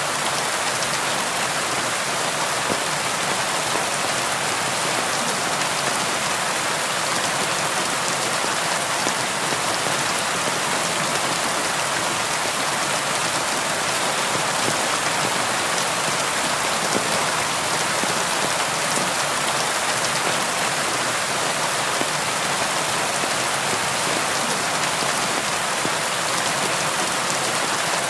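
Steady rain falling on a window pane, an even hiss with fine drop ticks and no thunder.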